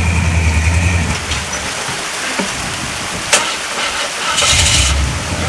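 Off-road vehicle's engine running steadily, then its low note drops away for about three seconds while it works over rock. There is one sharp knock about three seconds in and a short burst of hiss near the end as the engine note comes back.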